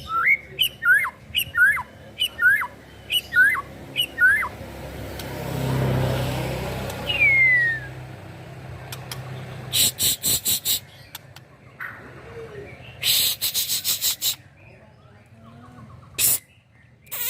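A young white-rumped shama (murai batu) singing: a run of repeated rising whistled notes, about two a second, then a single falling whistle and later short bursts of rapid, high chattering notes. A low rushing swell rises and fades midway.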